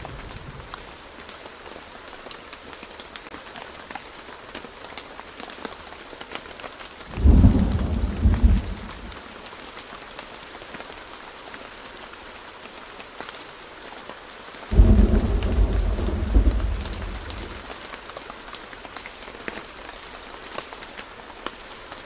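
Steady rain in a thunderstorm, with two loud claps of thunder about seven and fifteen seconds in, each rumbling for a couple of seconds before fading back into the rain.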